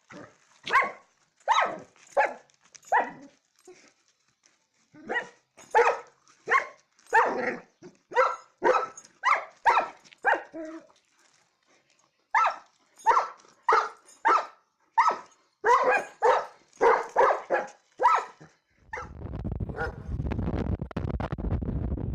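A dog barking repeatedly in three runs of quick barks with short pauses between them. Near the end the barking stops and wind rumbles on the microphone.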